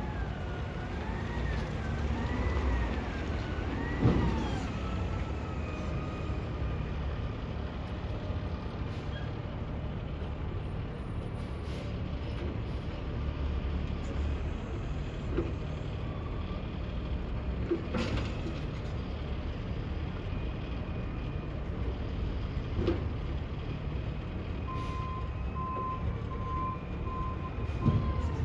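Garbage truck engine running steadily, with wavering high squeals in the first few seconds and a few sharp knocks. A steady electronic beeping starts near the end, like a reversing alarm.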